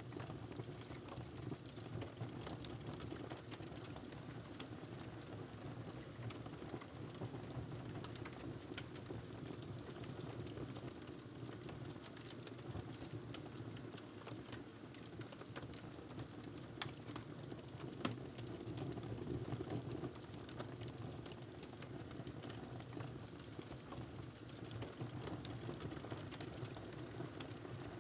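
Wood fire crackling in a fireplace: a steady low rush of flames with scattered sharp pops and snaps throughout, and one louder pop about two-thirds of the way through.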